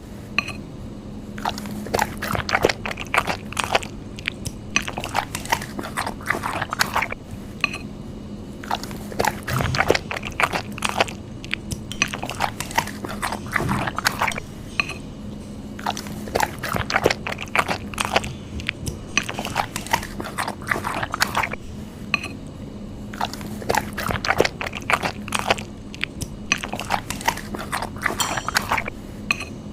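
A person eating spicy noodle soup: chewing and biting in close, wet mouth sounds, with bursts of quick clicks and smacks coming in runs with short pauses between. A faint steady hum sits underneath.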